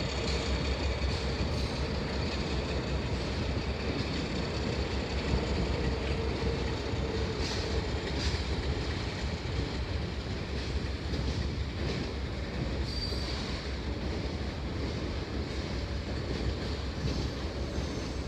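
Heritage passenger railcars rolling slowly past: a steady rumble of steel wheels on rail with faint clicks over the joints and a faint steady whine in the first half. A short high squeak comes about two-thirds of the way through.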